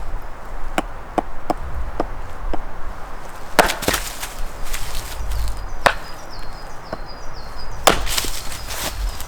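Wood being chopped or split with a blade: a quick run of light sharp knocks, then three heavier strikes about two seconds apart, the first and last trailing off in a splintering crackle.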